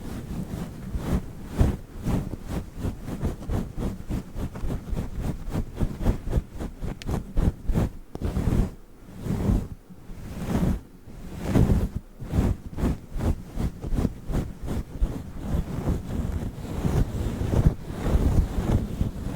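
A fluffy furry microphone windscreen being rubbed and scratched right on the microphone, a dense run of quick rustling strokes with a couple of short pauses midway.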